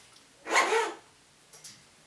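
African grey parrot making one short, loud call about half a second in, followed by a couple of faint clicks.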